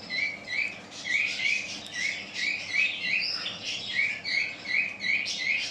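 Caged birds chirping: a steady run of short repeated chirps, about two or three a second, with other birds calling over them.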